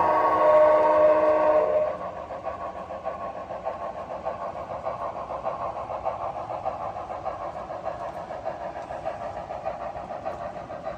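An HO scale model locomotive's onboard sound sounds a chord-like whistle or horn blast for about the first two seconds, then settles into a steady rhythmic running sound of several pulses a second as the train moves along the layout.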